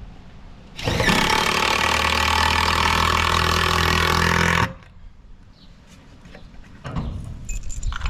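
A handheld power tool runs steadily for about four seconds, starting about a second in and then cutting off, followed near the end by light metallic clattering.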